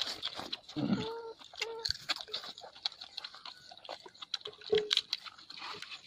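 Close-up eating sounds: chewing of rice and chicken, with many short wet mouth clicks and smacks. A brief high-pitched call is heard about a second in and again near the end.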